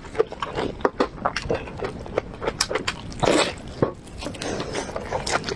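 Close-miked chewing and wet mouth smacking while eating braised pork ribs: a quick, irregular run of sticky clicks and smacks, with a longer wet slurp about three seconds in.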